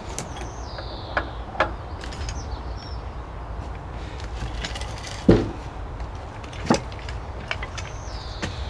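A few sharp knocks and clunks from wooden blocks and a jack being handled while a greenhouse is levered back into place, the loudest about five seconds in, over a steady low rumble.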